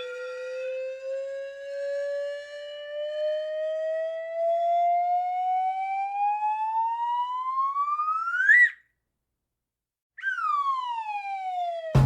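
Cartoon slide whistle gliding slowly upward in pitch for about eight seconds, then, after a short pause, a quick downward slide. A sudden heavy thump comes at the very end.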